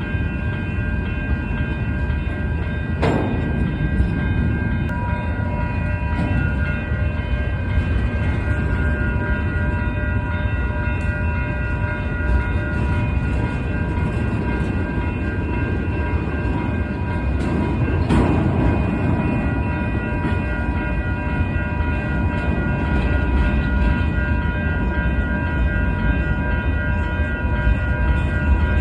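Union Pacific freight train of empty intermodal cars rolling past with a steady rumble and a sustained high-pitched squeal from the wheels. There are two sharp clanks, about 3 seconds and 18 seconds in.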